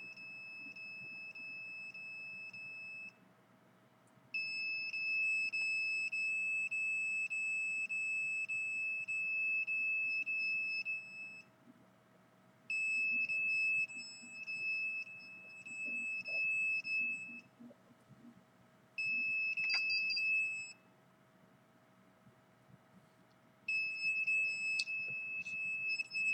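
Electronic meter's alarm sounding a steady high-pitched tone in five stretches of several seconds each, cutting out briefly between them.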